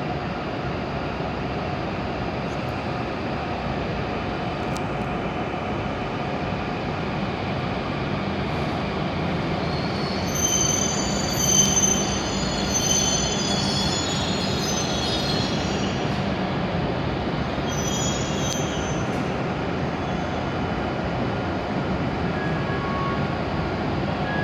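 W7-series Shinkansen train running along the platform with a steady rumble. High-pitched wheel squeal sets in about ten seconds in for several seconds, then comes back briefly a few seconds later.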